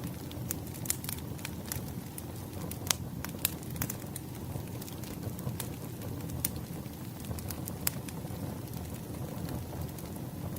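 Wood fire burning, the logs crackling and popping at irregular intervals over a low, steady noise of the flames; the sharpest pops come about three seconds in.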